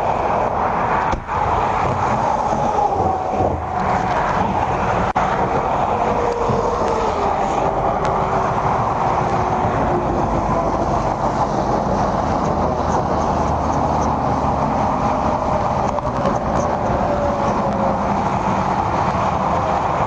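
Police cruiser driving at speed, heard from inside the car: steady road and engine noise with faint tones drifting slowly up and down in pitch.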